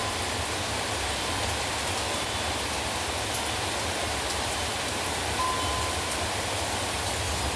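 Heavy rain falling steadily, a dense even hiss with scattered sharp drop taps.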